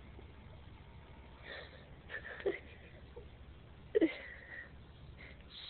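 A cat giving a few short cries with falling pitch, the loudest about four seconds in.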